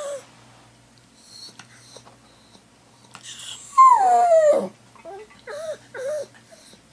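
A dog howling. One loud howl falls steadily in pitch a little past the middle, and two short whimpers follow near the end. It is the distress howling the dog keeps up while her owner is away.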